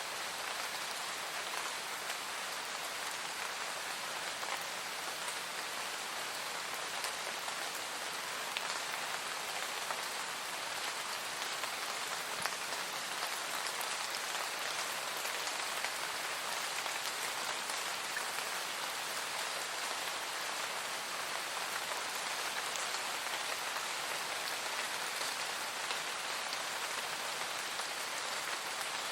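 Steady rain falling: an even hiss of rainfall with scattered individual drop ticks, unchanging throughout.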